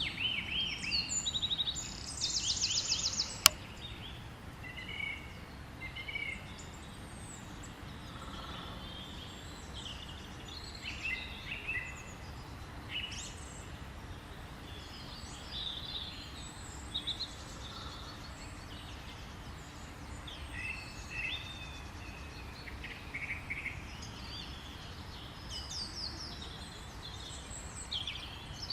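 Several wild birds singing and calling, with a rapid trill about two to three seconds in, and a single sharp click soon after.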